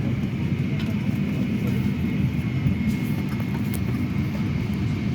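Steady cabin noise of a Boeing 757-300 parked at the gate before engine start: an even low rumble with a faint, steady high whine, and a few faint clicks.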